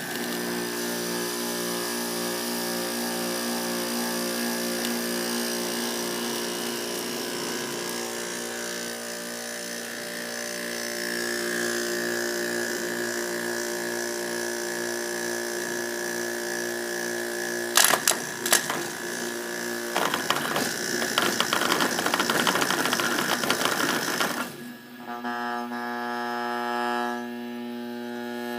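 GE window air conditioner's failing compressor running with a harsh, pulsing mechanical rattle over a buzzing hum: the compressor is breaking down internally. A few sharp clicks come about two-thirds of the way in, then several seconds of crackling rattle. Near the end the rattle falls away, leaving a steady electrical hum.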